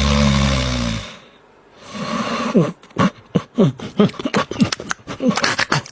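An animal vocalizing. A loud noisy sound with a low tone in the first second, then from about two seconds in a rapid run of short calls that rise and fall in pitch.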